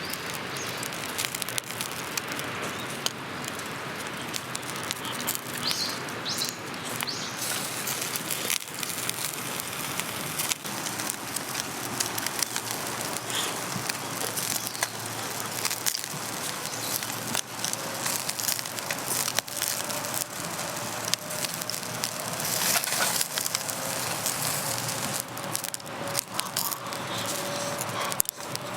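Wood fire crackling in a fire stand, with many small sharp pops over a steady hiss.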